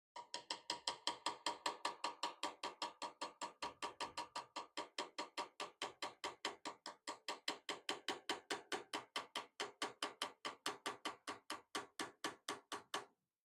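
Hammer striking hot wrought iron on an anvil in a fast, steady rhythm of about four to five blows a second, each blow ringing, then stopping.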